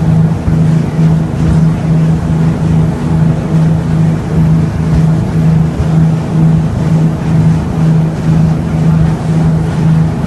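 Boat engine running steadily under way, a loud low drone that swells and fades about one and a half times a second.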